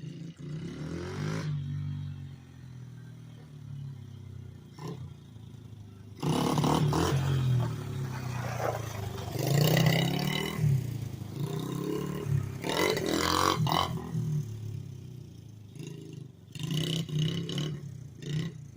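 A pit-bike engine on a homemade three-wheeler, running unevenly and revving up in several surges, the loudest about six, ten and thirteen seconds in.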